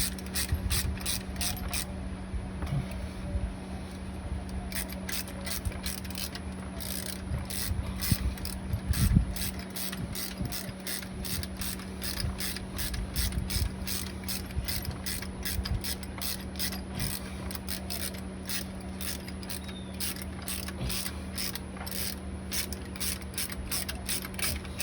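Ratchet wrench clicking steadily through long runs of strokes as the alternator's 7/16 in. mounting bolt is run down, with a single heavier thump about nine seconds in.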